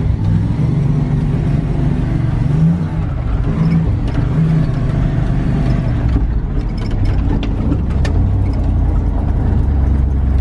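Engine of a Ram four-wheel-drive pickup truck running under way, its pitch rising and falling a few times, with scattered clicks in the second half.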